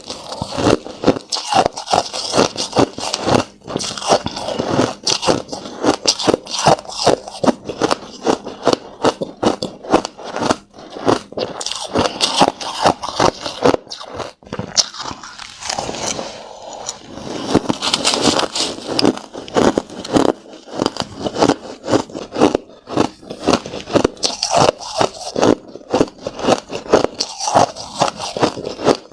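Crushed ice being bitten and chewed close to the microphone: rapid, irregular crunches.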